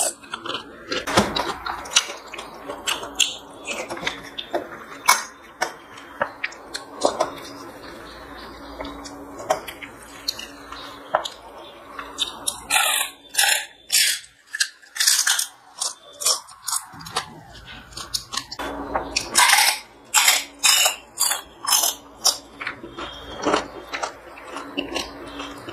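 Close-miked eating by hand: wet chewing and lip-smacking clicks at a quick, uneven pace as soft rice and dal are eaten, with fingers mixing food on a steel plate.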